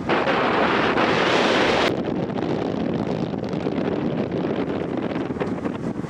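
Wind buffeting the microphone aboard a sightseeing cruise ship on a lake, with a rush of wind and water. A strong gust fills the first two seconds and cuts off suddenly, leaving a lower, steady rushing.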